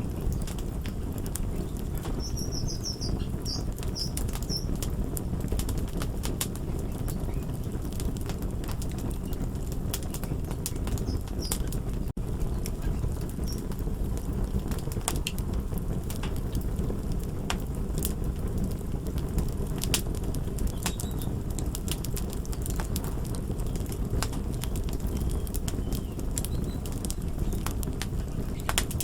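Crackling wood fire: a steady low rumble with frequent sharp pops and snaps.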